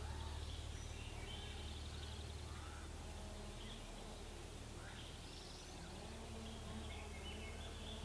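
Birds calling and chirping at intervals, with a couple of short high trills, over a steady low rumble.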